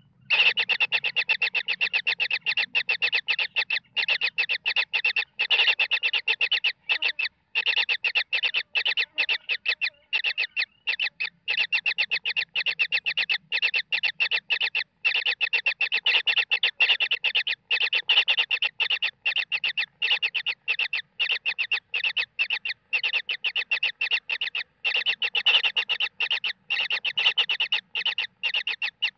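Baby kingfisher calling in a rapid, nearly unbroken string of short shrill notes, with a few brief breaks.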